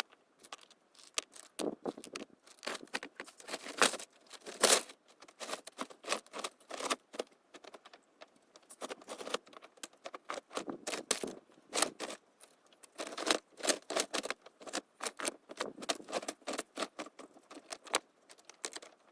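Irregular clicking and clattering: many small, sharp knocks in quick, uneven runs with short pauses between.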